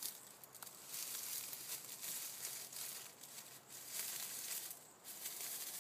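Uneven rustling and crunching in dry leaf litter and brush, coming and going in irregular swells.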